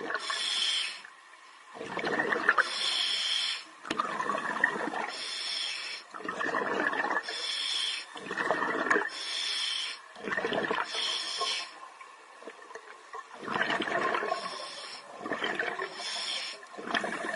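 Scuba diver breathing through a regulator underwater: a hissing, whistling inhale alternates with a burst of bubbling exhaust from the exhale, about every two seconds and roughly eight breaths in all.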